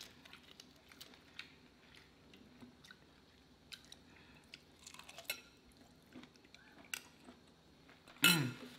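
Close-up mouth sounds of eating honey garlic prawns: faint chewing and biting with scattered wet clicks and smacks. Near the end, a short voiced sound that falls in pitch is the loudest moment.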